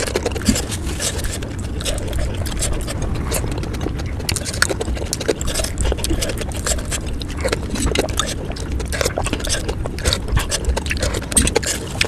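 Close-miked eating of pani puri: many sharp crunches and wet mouth clicks as the fried puri shells filled with spicy pani are chewed, with a steady low rumble underneath.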